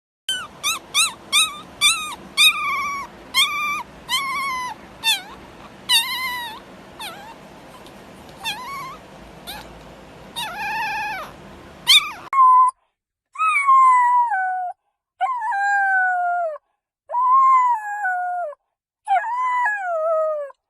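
A dog yipping in a quick run of short, high calls, about two a second, which then come more sparsely. After a cut, a dog howls in about four long calls, each about a second, falling in pitch.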